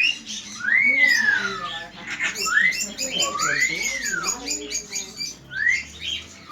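A pet bird whistling a repeated phrase: a short upward note followed by a longer whistle that rises and slowly falls, several times over, with softer low chatter in between.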